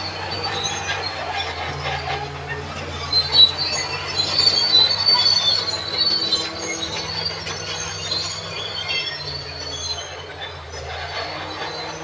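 Tracked bulldozer working, its diesel engine running steadily under a high squeal from the steel tracks, loudest in the middle.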